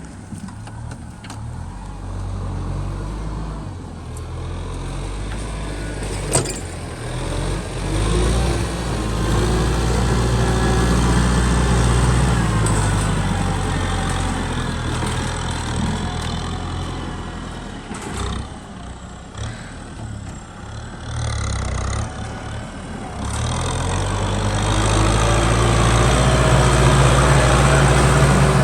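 Kubota M6040 tractor's four-cylinder diesel engine running steadily while plowing mud, its level rising and falling with the load and growing louder near the end. A single sharp click sounds about six seconds in.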